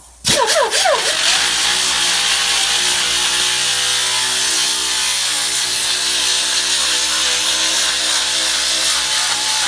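A power grinder spins up about a third of a second in and then grinds steadily against the car's rear quarter panel, taking off paint and body filler.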